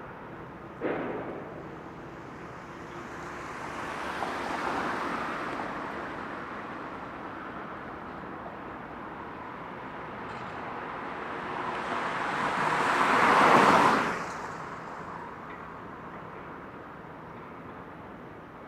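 Road traffic passing close by: a vehicle swells and fades, then a louder one builds up and drops away quickly as it passes, with a sharp knock about a second in.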